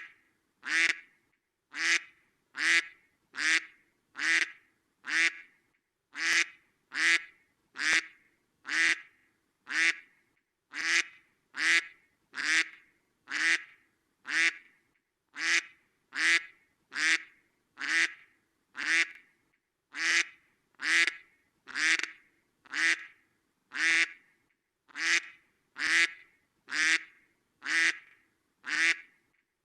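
A duck quacking over and over at an even pace, a little over once a second, each quack sounding the same.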